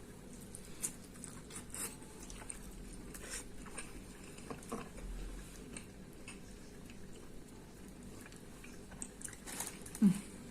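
A person chewing and biting food close to the microphone, with scattered wet mouth smacks and clicks. A short, louder sound comes near the end.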